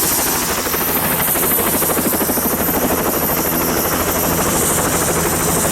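Helicopter in flight: a steady, rapid rotor beat over a continuous engine drone.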